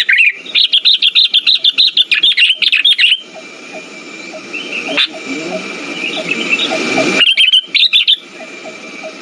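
Sooty-headed bulbul (kutilang) calling: a fast run of loud, high chirps lasting about two and a half seconds, then fainter scattered chirps, and another short burst of chirps near the end.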